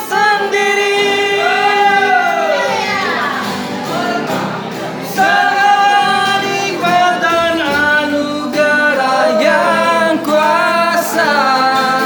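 A voice singing a song with long held notes, accompanied by a strummed guitar.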